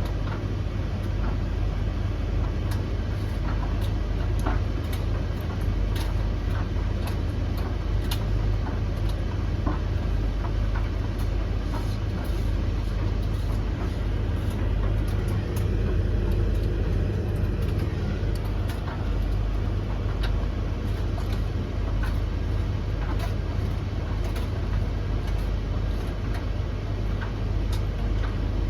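Three tumble dryers (Blomberg LTK310030W, Russell Hobbs RH3VTD800 and Hoover HLEC8TRGR-80) running together mid-cycle: a steady low rumble of drums and fans, with scattered irregular clicks as the load tumbles.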